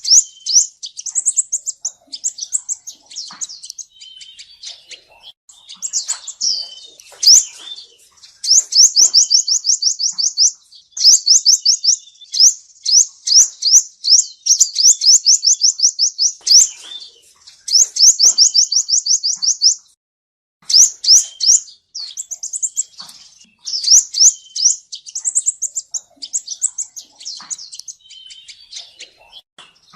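Song of a male 'seven-colour' sunbird: high-pitched, rapid trills of sharp, quickly repeated notes, phrase after phrase, with a brief pause about two-thirds of the way through.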